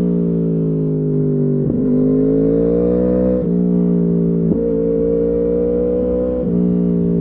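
2015 Yamaha R1's crossplane inline-four through an Akrapovič exhaust, running steadily under load. It rises in pitch as it accelerates, and four sudden gear changes break the note.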